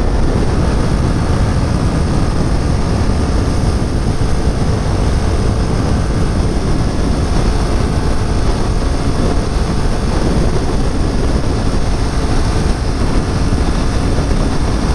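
Kawasaki Ninja 400 at steady highway speed on a wet road: loud, even wind rush over the microphone with the parallel-twin engine running underneath.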